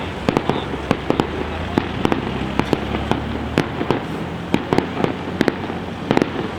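Large professional fireworks display: a rapid, irregular string of sharp shell bursts and bangs, several a second, over a continuous low rumble of further explosions.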